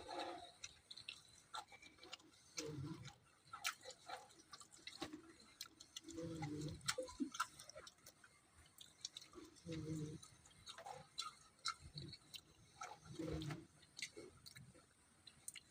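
Person eating close to the microphone: scattered sharp mouth and chewing clicks, with a short low voice-like sound about every three to four seconds.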